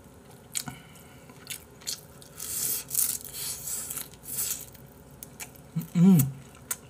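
A person biting into and chewing crunchy fried squid tempura, with a few small clicks early on. About six seconds in comes a short hummed 'mm' that rises and falls in pitch, the loudest sound here.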